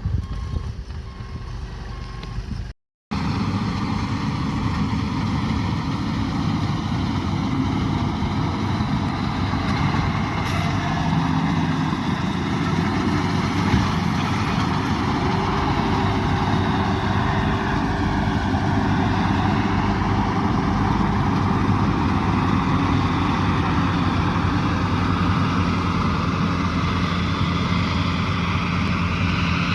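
Combine harvester's diesel engine and machinery running steadily. The sound cuts out briefly about three seconds in, then carries on.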